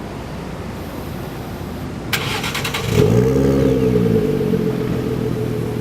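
Car engine idling, with a brief rattling clatter about two seconds in, then revved once about three seconds in: the pitch rises and drops back to a steady idle within about a second.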